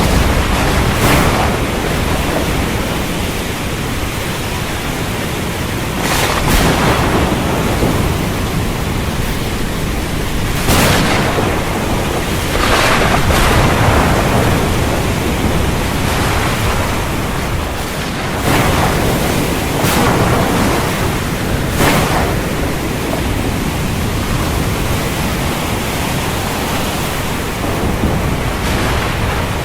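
Stormy sea: a steady noise of wind and surf, with a stronger surge every few seconds.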